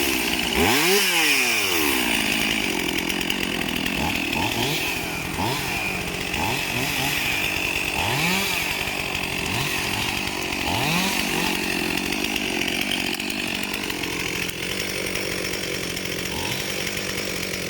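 Chainsaw cutting wood: the engine swings up to full revs and back down about a second in, then runs with many short surges in engine speed as it bites into the wood.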